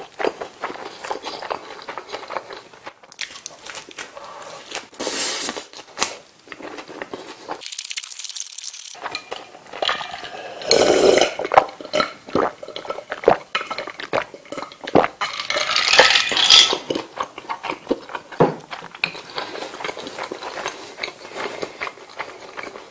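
Close-miked mouth sounds of a man chewing a McDonald's bulgogi burger: soft bun and lettuce crunching with wet smacking clicks. Around the middle he drinks from a glass bottle, with gulping.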